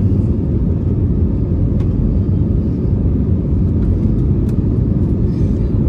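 Steady low rumble of the Airbus A320neo's jet engines during takeoff.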